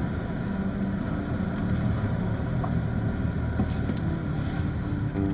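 Steady low rumble of a vehicle running, with no sudden events.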